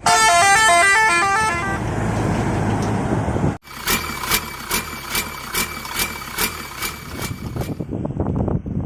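A multi-note musical horn plays a quick stepping run of notes, followed after a short break by a regular series of short bright tones, about two or three a second. Near the end, wind noise takes over.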